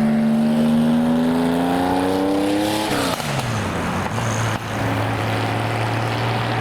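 Car engine accelerating away: its note climbs for about three seconds, drops sharply, then settles into a steady lower note.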